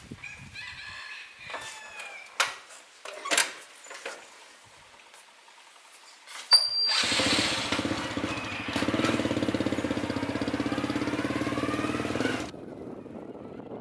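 A few scattered clicks and knocks, then a sharp click and an excavator's diesel engine starting and running loud with a fast steady pulse, its pitch slowly rising. The engine sound cuts off abruptly about five seconds later.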